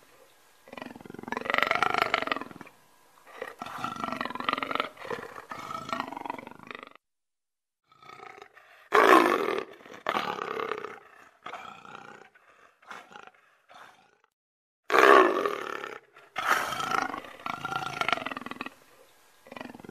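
A large predator roaring in a series of calls, each a second or two long, with short pauses between them. Two of the calls, about nine and fifteen seconds in, are louder than the rest.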